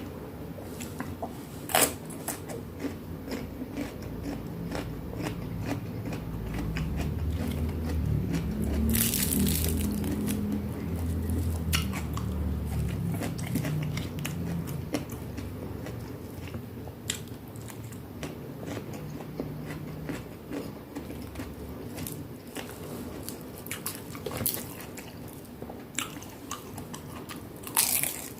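A person biting and chewing crunchy food: sharp crunches now and then, with a stretch of heavier, lower chewing in the middle.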